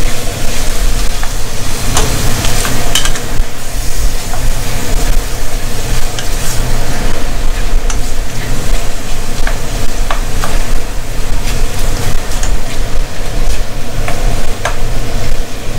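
Chicken thigh pieces sizzling in hot oil in an aluminium pot while a wooden spatula stirs them, with scattered scrapes and knocks of the spatula against the pot, over a steady low hum.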